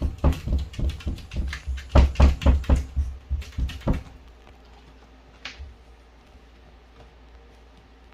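A quick, irregular series of knocks and thuds with heavy low thumps, which stops about four seconds in and is followed by one softer knock.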